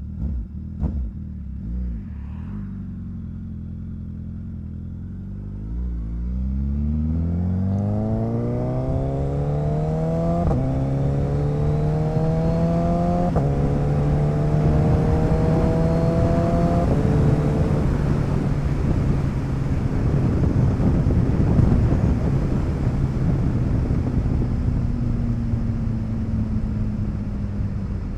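Motorcycle engine idling, then pulling away about six seconds in and accelerating, its pitch climbing and dropping back at three upshifts. It then cruises at a steadier note, with wind noise rising over it.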